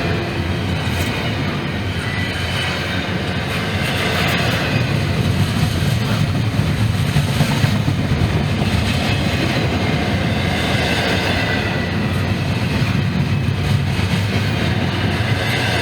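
Norfolk Southern freight train's cars rolling past: a steady, loud run of wheel noise with scattered short clicks.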